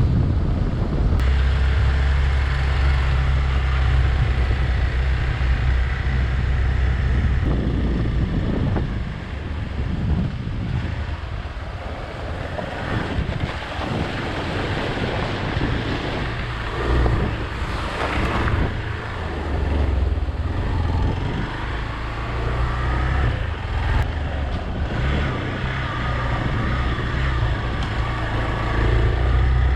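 Motorcycle engine running at a steady pace while riding, with wind rushing over the microphone; the engine's low hum dips for a while about nine seconds in and again near twenty seconds.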